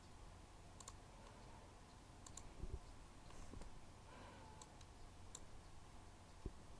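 Near silence: room tone with a few faint scattered clicks and a couple of soft knocks.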